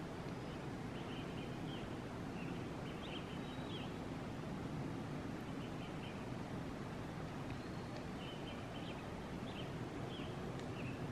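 A small songbird sings short, high chirping phrases every second or two over a steady low rush of distant falling water.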